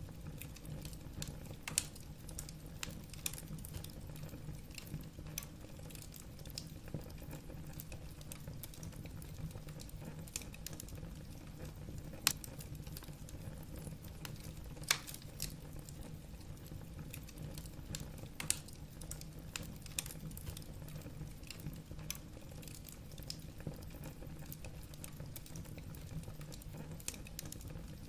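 Wood fire burning in a fireplace: a steady low rumble of flames with irregular crackles and pops of burning logs, a few louder snaps scattered through.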